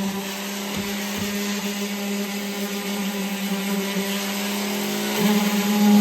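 Electric orbital sander running against a wooden box, a steady motor hum with gritty sanding hiss. About five seconds in, the hum rises in pitch and gets louder.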